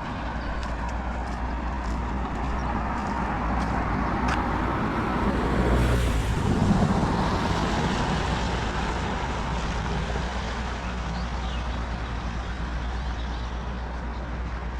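Steady heavy rain, with scattered sharp drop ticks, and a vehicle passing on the wet road that swells to its loudest about six to seven seconds in and then fades.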